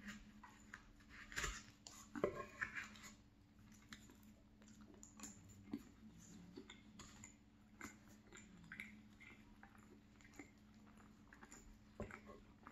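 Quiet close-up chewing of a mouthful of salmon pie, with a few small clicks and scrapes of a fork in the pie and its aluminium foil tin, the loudest about two seconds in and again near the end.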